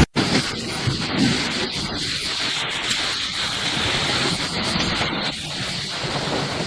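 Steady rushing storm noise, rain and wind, cutting in suddenly just after the start.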